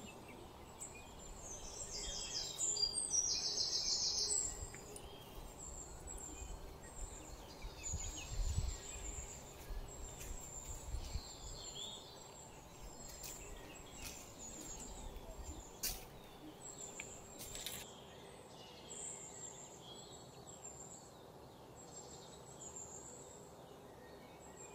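Small birds chirping repeatedly in short, high notes, with a brief fast trill about three seconds in. A low rumble sits under the first half and fades away.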